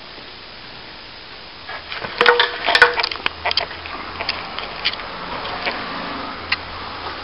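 Fallen plasterboard debris being handled and broken up: a burst of cracking and snapping about two seconds in, then scattered clicks and rustling.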